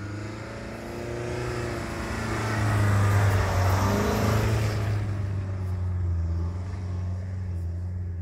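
Skoda Kodiaq's 2.0 TDI diesel engine pulling under load as the 4x4 SUV climbs rough, slippery ground. The revs rise over the first three seconds, are loudest around the middle, then ease off.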